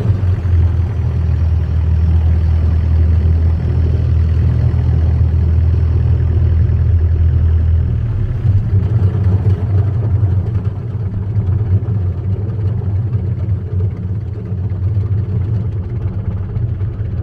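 Long-tail boat engine running steadily with a strong low hum. About eight seconds in, the sound turns rougher and drops slightly in level.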